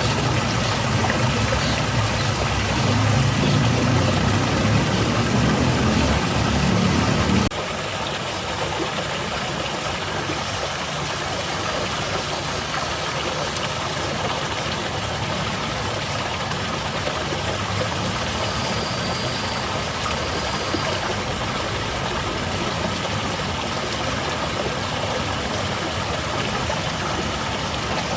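Steady rushing and splashing of a small garden waterfall. A deeper rumble sits under it for the first seven seconds or so and cuts off suddenly.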